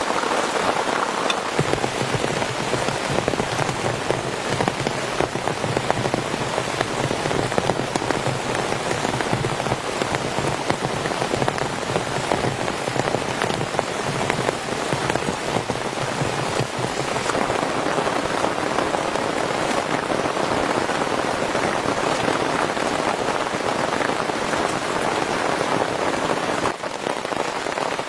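Heavy rain falling steadily on a tent, a dense stream of drops hitting the fabric.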